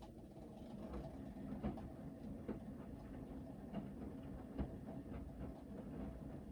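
Hoover VHD 9163 ZI front-loading washing machine in its main wash, the drum starting to turn again after a pause: a steady motor rumble with the wet laundry tumbling in the drum and irregular knocks as it drops.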